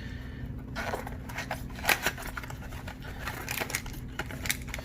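Crinkling, rustling and clicking of trading-card packaging and cards being handled and opened, starting about a second in. A steady low hum runs underneath.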